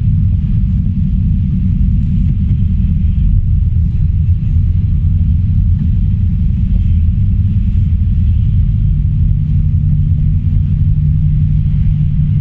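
Steady low rumble of a car driving: engine and road noise. A low hum in it grows a little stronger about two-thirds of the way through.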